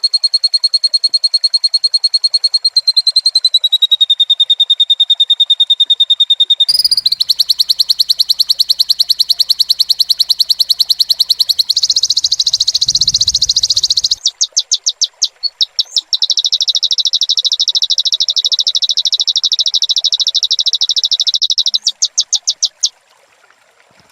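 Loud, rapid, machine-regular trilling calls from small animals, pitched high, changing character several times: a steady trill that drops slightly in pitch about 3 s in, a harsher trill from about 7 s, a stuttering run of separate pulses around 14–16 s, then a steady trill again that breaks up and stops a second before the end.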